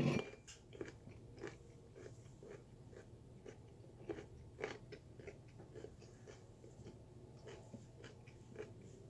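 A person chewing raw sweet potato with the mouth closed: faint, irregular crunches about twice a second. A thump dies away at the very start.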